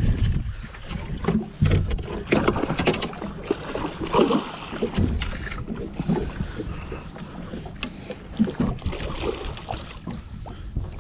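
Wind and water noise aboard a small fishing boat at sea, with a low rumble and scattered knocks and clatter.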